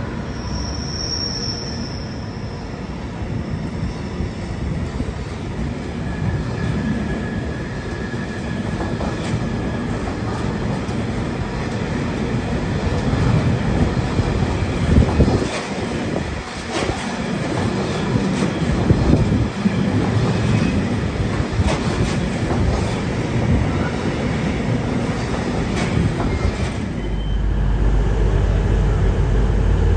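Loaded open freight wagons of an engineers' train rolling through a station behind a Class 66 diesel, wheels clattering over rail joints and pointwork with brief high wheel squeals. About 27 seconds in the sound changes to the steady low hum of a TransPennine Express Class 802 train pulling in.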